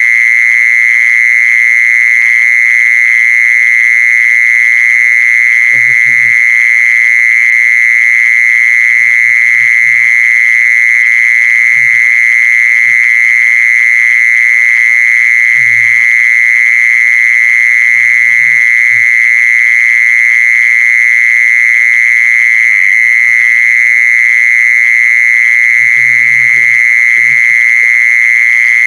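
Jee-sorn insect (แมลงจีซอน) calling in one loud, unbroken, steady high trill. Faint voices are heard a few times underneath.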